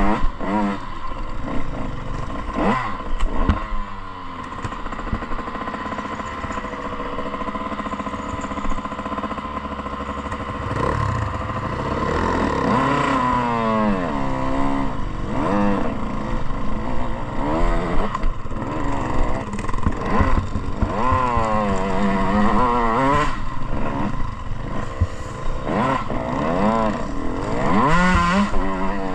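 Motocross dirt bike engine revving up and falling back again and again as it is ridden round the track, with scattered knocks and clatter.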